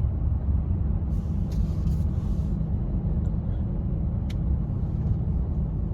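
Jeep Gladiator's engine running with a steady low rumble, with a single sharp click a little past the middle.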